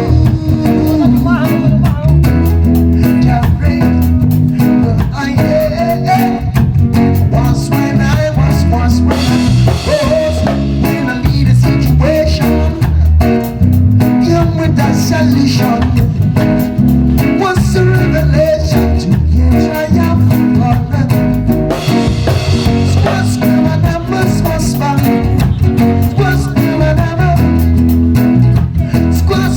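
Live band playing an instrumental reggae-style groove, with drum kit, bass and guitar.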